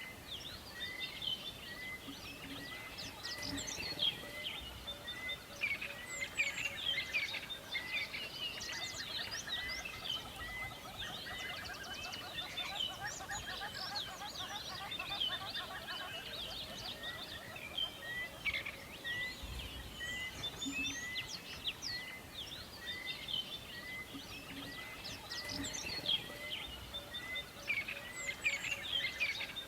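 Many songbirds chirping and singing together over a faint steady hiss, with one bird repeating a short note a little under twice a second beneath the other calls.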